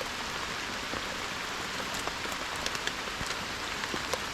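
Heavy rain pouring down: a steady hiss with scattered sharper ticks of individual drops hitting.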